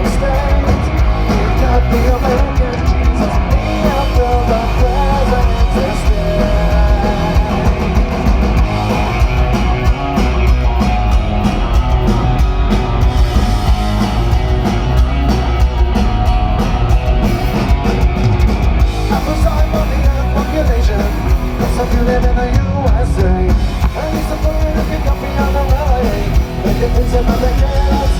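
Punk rock band playing live: distorted electric guitars, bass and drum kit with a singing voice, loud and continuous with a heavy low end.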